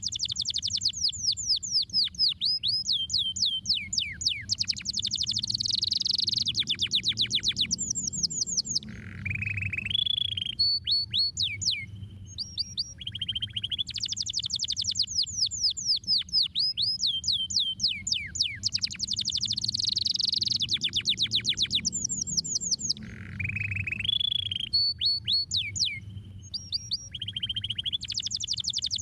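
Domestic canary singing: rapid trills of quick descending notes in changing tours, with some lower whistled rolls. The same song passage repeats about every fourteen seconds, over a faint low hum.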